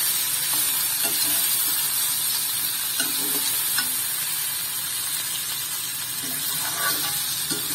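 Raw banana slices sizzling in oil in a coated kadai while a perforated steel spatula stirs and turns them, with occasional light clicks and scrapes of the spatula against the pan.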